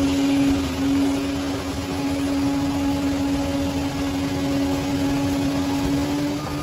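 Bulldozer's diesel engine running steadily: a low rumble with a steady whining tone over it.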